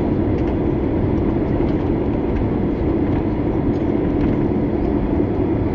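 Steady cabin noise inside a Boeing 767 on the ground just after landing: a low, even drone of the engines and the rumble of the airliner rolling.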